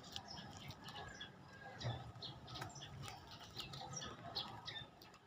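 Prenjak lumut, a small songbird, giving short high chirps in quick irregular succession, with a few light clicks among them.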